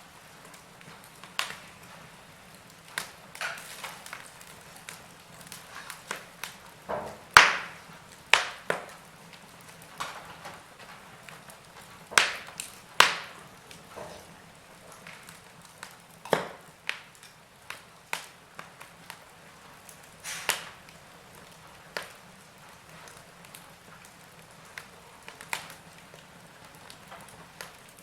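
Log fire crackling: irregular sharp pops and snaps, several of them louder, over a faint steady hiss.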